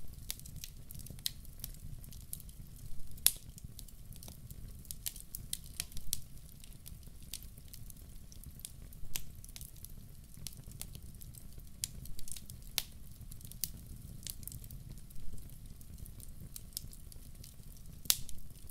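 Wood fire burning in a fireplace: a low rumble of flames with irregular sharp crackles and pops, the loudest pops about three seconds in and near the end.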